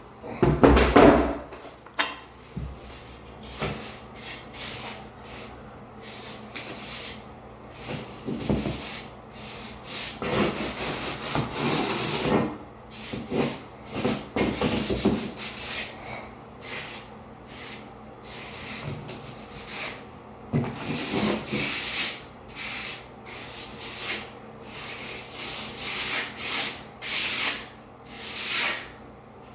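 Trowel scraping and smoothing dry-pack shower pan mortar in repeated, irregular strokes, with a louder knock about a second in.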